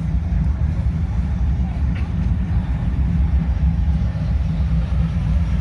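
Classic car engine running at low speed nearby, a steady deep sound with an uneven pulse.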